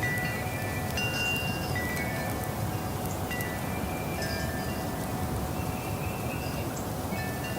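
Wind chimes ringing in the breeze: many high, bell-like notes struck at irregular moments, overlapping and ringing on, over a steady low rushing background.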